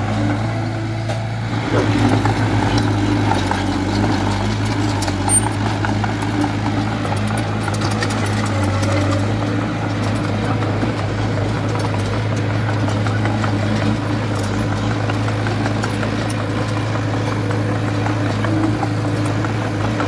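Diesel engine of a small D20A bulldozer running steadily at an even pitch, with scattered light clicks and clanks.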